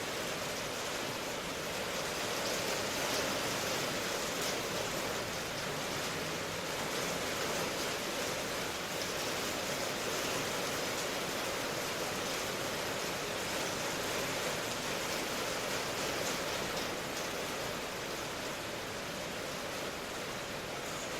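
Steady rain, an even hiss that holds level throughout.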